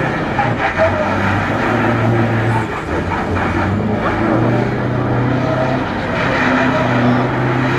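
Scania V8 truck engine running loud and steady, its pitch shifting up and down a little in steps as the revs change.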